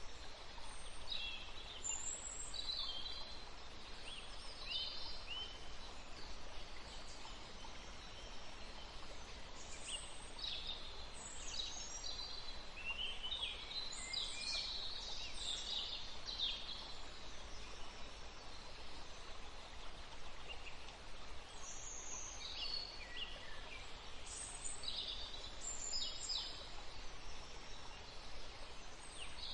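Several songbirds chirping and trilling in bursts over a steady background hiss, busiest in the middle and again near the end.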